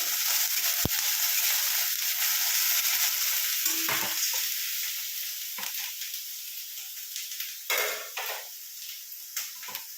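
Onion paste frying in mustard oil in a pan, a steady sizzle, with a spatula stirring and scraping against the pan a few times. The sizzle gets quieter in the second half.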